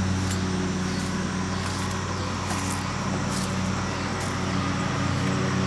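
A steady, low mechanical drone, like a running engine, with a few faint light ticks over it.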